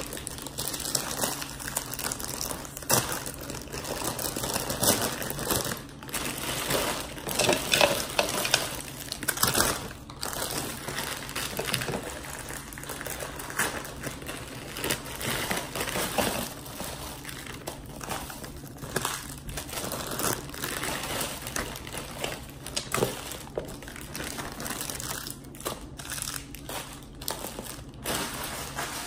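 Plastic candy wrappers crinkling as handfuls of wrapped candy are handled and sorted, an irregular run of small crackles.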